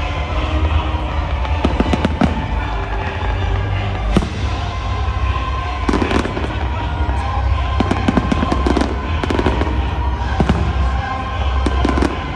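Fireworks display: clusters of sharp bangs and crackles over a continuous low rumble, the bursts coming thickest about six seconds in and again near the end.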